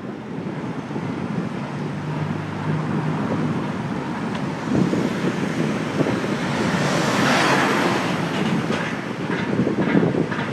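Ride noise picked up by a phone mounted on a bicycle's handlebars: a steady rumble with wind on the microphone and scattered rattles and clicks from the bike over the road, swelling about seven seconds in.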